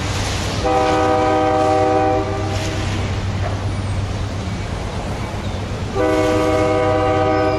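Diesel freight locomotive's multi-note air horn sounding two long blasts, about five seconds apart, over a steady low hum.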